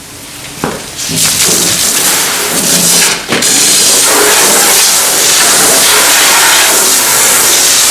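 Water spraying hard while the concrete tools and wheelbarrow are washed down: a loud steady hiss that starts about a second in.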